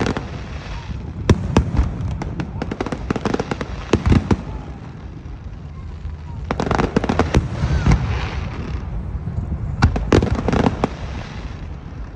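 Aerial fireworks show: shells bursting with sharp bangs and crackles that come in clusters every couple of seconds, with a low rumble in between.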